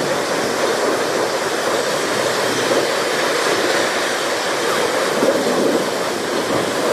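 Steady rushing noise of a train running past, with no clear clatter, squeal or horn standing out.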